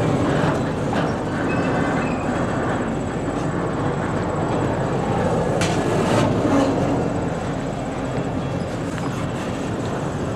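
Double-stack intermodal freight cars rolling past, a steady rumble and rattle of steel wheels on rail, with a couple of sharp clanks about six seconds in.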